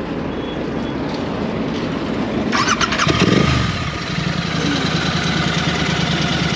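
A motorcycle engine starts about halfway through, with a brief surge that drops and settles into a steady idle, over a low engine rumble.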